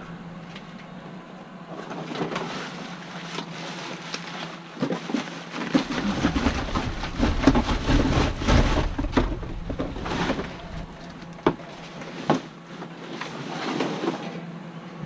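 Rummaging through trash in a dumpster: rustling with scattered knocks and clatters. Wind buffets the microphone with a low rumble in the middle.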